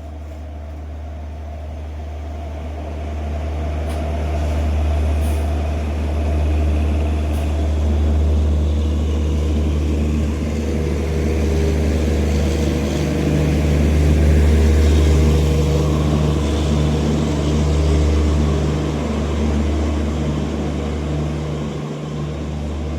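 Express train hauled by a WAP4 electric locomotive running past: a steady low rumble and hum with a few held low tones, growing louder over the first half and staying loud.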